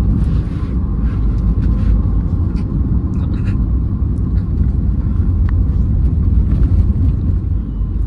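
A 2008 Hyundai Verna 1.6 turbo diesel on the move: a steady, low rumble of engine and road noise, with a few faint clicks and rattles over it.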